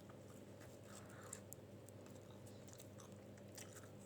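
Faint chewing of a soft chicken wrap: scattered quiet wet mouth clicks over a low steady hum.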